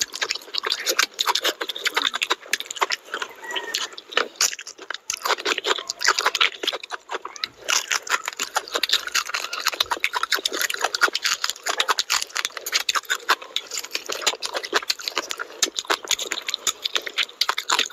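Close-miked chewing and lip-smacking of a person eating fried fish and curry with rice by hand: a dense, unbroken run of small mouth clicks and smacks.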